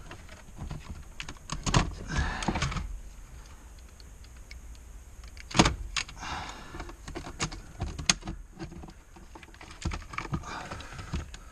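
Plastic dashboard trim being pried at and handled: irregular clicks, knocks and scraping, with one sharp knock about five and a half seconds in.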